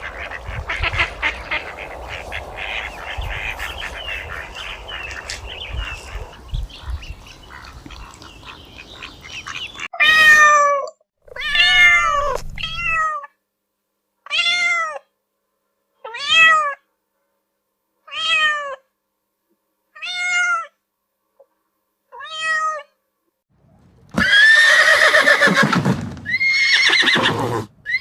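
Domestic cat meowing about eight times, one meow every second or two, each rising and then falling in pitch. It is preceded by a stretch of rough, clattering noise. Near the end comes a louder, longer wavering call, the start of a horse whinnying.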